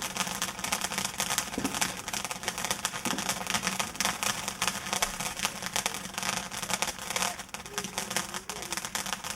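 Firework crackling: a dense, continuous spray of rapid sharp crackles.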